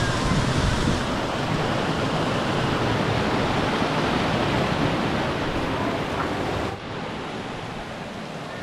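Steady rushing noise of falling water. About seven seconds in it suddenly becomes quieter and duller.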